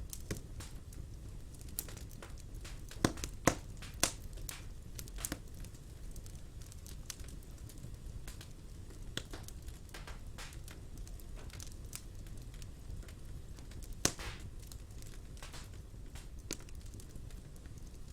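Fire in a fireplace crackling: scattered sharp pops over a low, steady rumble, with a few louder pops about three to four seconds in and another single loud one near fourteen seconds.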